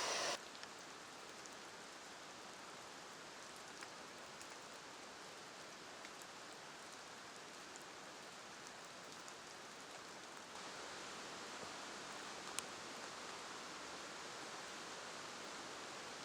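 Steady rain falling, with scattered faint ticks of drops. It gets slightly louder about ten seconds in, and one sharper tick comes about twelve seconds in.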